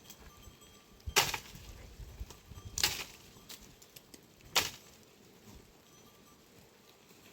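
Three sharp knocks, evenly spaced about a second and a half apart, each with a short ringing tail.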